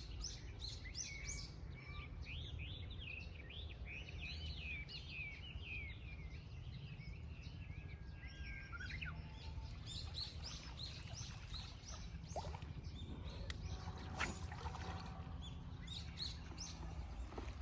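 Small birds chirping and trilling over and over, over a steady low rumble of background noise, with one sharp click about fourteen seconds in.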